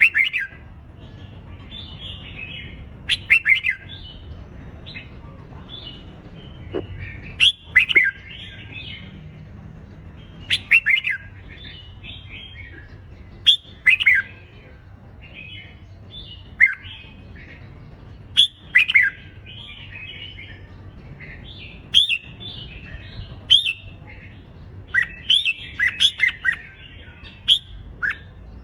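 Red-whiskered bulbuls in contest song: short, loud, sharp phrases of quick falling whistles burst out every second or two over steady softer chatter.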